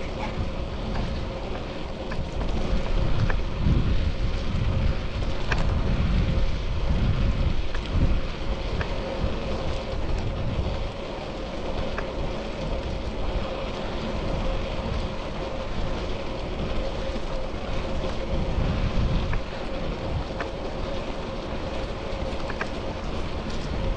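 Wind buffeting the microphone of an action camera on a moving bicycle, in gusty low rumbles, over road and traffic noise with a steady hum and scattered short clicks.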